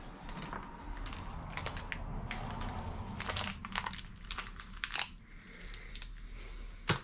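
Crinkling and rustling of gasket-kit material being handled and cut, with irregular sharp clicks and a louder click near the end.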